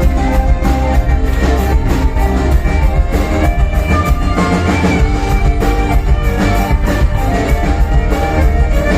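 Folk-rock band playing live: electric guitar and drum kit with a steady beat, loud and full.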